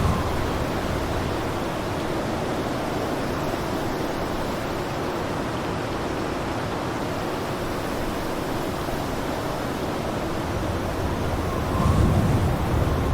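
Blizzard wind blowing steadily as a dense rushing noise. A stronger gust swells in with a deeper rumble near the end.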